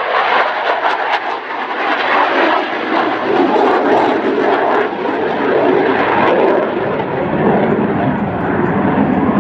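Loud, steady engine noise from a jet aircraft flying a display.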